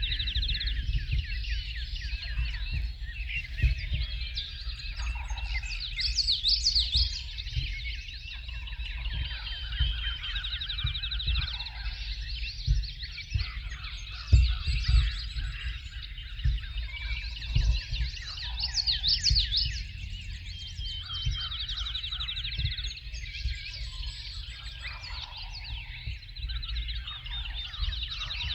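Spring dawn chorus: many songbirds singing at once, a dense overlap of trills, chirps and whistled phrases. A low rumble with scattered thumps runs underneath.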